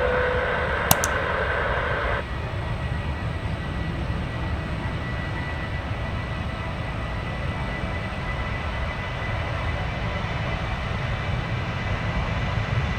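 Steady low rumble of jet airliner engines at the airport. In the first two seconds there is also a short stretch of radio-scanner hiss with a click.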